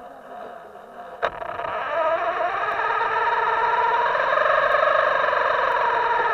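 Buzzy, distorted whine of a radio-controlled boat's electric motor. It is quieter for the first second, then a sharp click, then it runs steadily louder with a wavering pitch.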